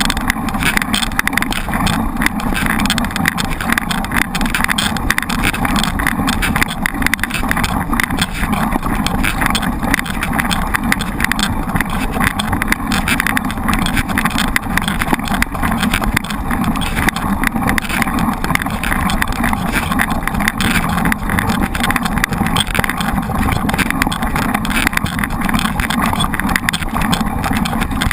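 Mountain bike riding noise: steady rushing wind on the camera microphone mixed with tyre and frame rattle on a trail.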